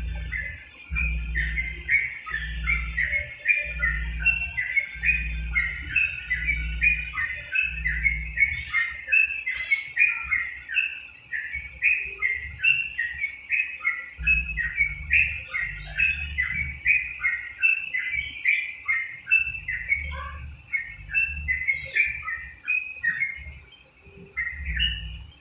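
Yellow-vented bulbul (trucukan) singing a fast, unbroken run of short chirps. A low thump repeats about once a second through the first third and again in the second half.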